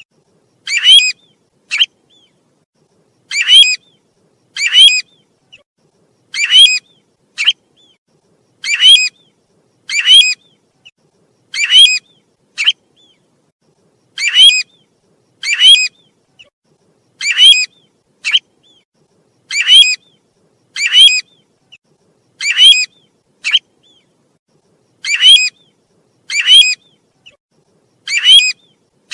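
A bird's whistled call, the one sold in Vietnam as the 'tu huýt' call, repeating over and over as a lure recording: loud clear notes, mostly in pairs about every two to three seconds, each note sweeping up and down, now and then with a short extra note between, and silence in the gaps.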